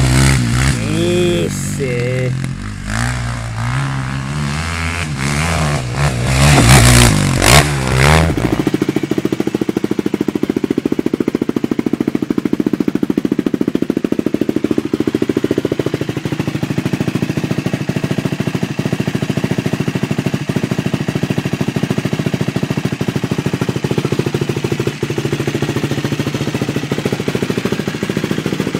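KTM 450 SX quad's single-cylinder four-stroke engine, revved up and down in repeated blips. About eight and a half seconds in, the sound changes abruptly to the engine idling steadily with an even, rapid pulse.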